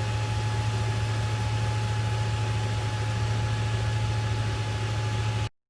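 A steady low machine hum with a constant hiss and a thin steady whistle-like tone, cutting off abruptly near the end.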